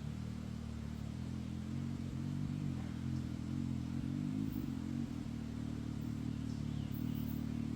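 Can-Am Maverick X3's turbocharged three-cylinder engine running steadily at low revs through an RPM eValve exhaust with a Monster Mouth cat-delete pipe.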